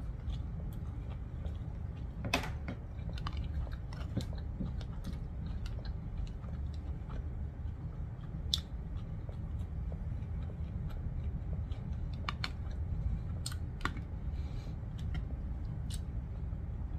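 A person chewing noodles close to the microphone, with scattered small clicks of a fork against a plastic takeout bowl over a steady low hum.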